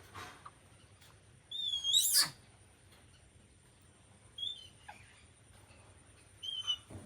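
A young monkey's high-pitched, wavering squeals, three times: a loud one about two seconds in and two shorter, fainter ones later.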